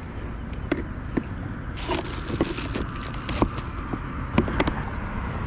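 Scattered small clicks and light knocks of fishing gear being handled on a kayak, over a steady low rumble.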